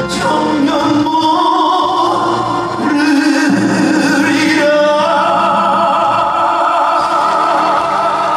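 Live music: a male singer in full voice with band accompaniment, holding a long steady note through the last few seconds.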